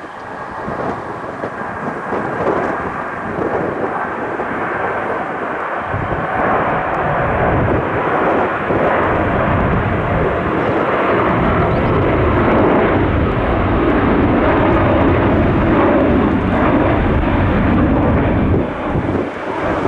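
Airliner engine noise from an aircraft taking off or landing, building up and loudest in the second half. Gusts of wind buffet the microphone.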